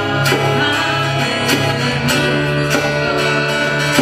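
Acoustic guitars strumming a steady rhythm in live band music, with held notes ringing underneath, about one strum stroke every half second or so.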